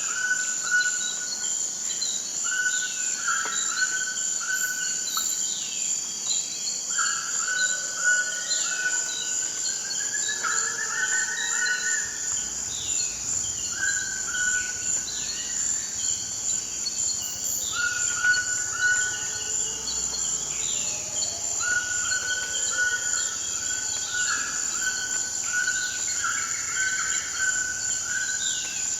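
Forest ambience: a steady high-pitched insect drone, with birds calling over it in short falling chirps and runs of repeated notes.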